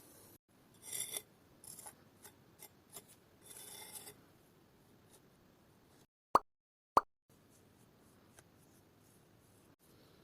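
Faint rubbing and scraping of small-scale hand work on miniature building materials, then two short, sharp pops a little over half a second apart.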